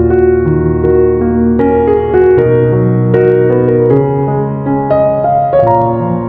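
Background music: piano playing a gentle melody over sustained low notes, a new note about every half second.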